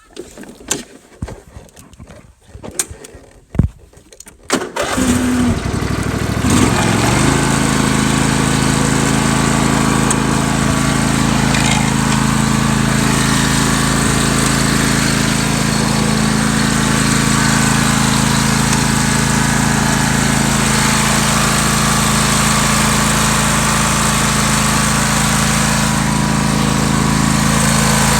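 Husqvarna riding yard tractor's engine cranked by its starter about five seconds in, catching within a couple of seconds and then running steadily. A few clicks and knocks come before the start.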